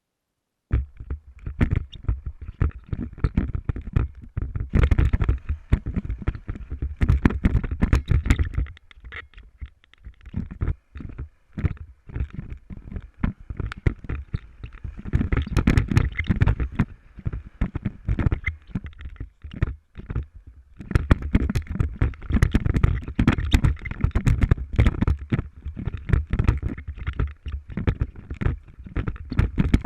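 Wind buffeting and irregular knocks and rattles on the microphone of a motorcycle-mounted camera riding over rough ground, a dense low rumble with brief lulls. It starts abruptly just under a second in.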